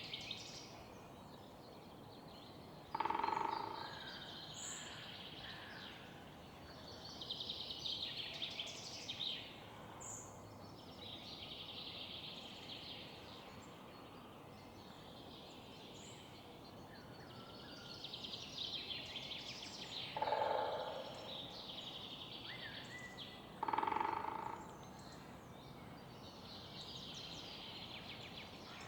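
Morning birdsong in a city park: several small birds sing overlapping high phrases over a steady low hum of distant city noise. Three louder, lower calls from a larger bird break in, about three seconds in and twice near the end.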